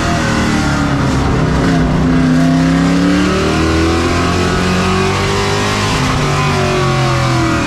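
Several race truck engines running hard together, their pitches overlapping and rising and falling as the trucks accelerate and lift off.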